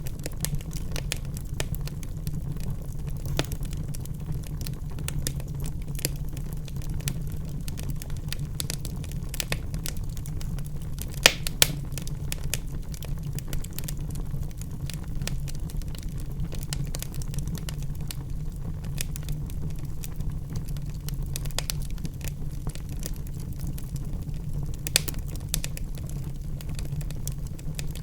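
Fireplace fire crackling with a steady low rumble, scattered small crackles throughout and a couple of sharper pops about eleven seconds in, another near the end.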